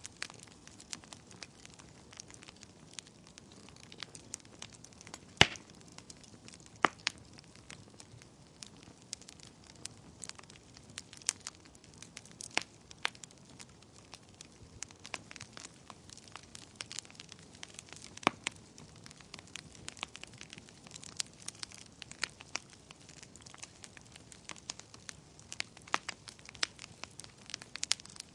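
Wood fire burning in a fireplace: irregular sharp crackles and pops over a soft hiss, one loud pop about five and a half seconds in.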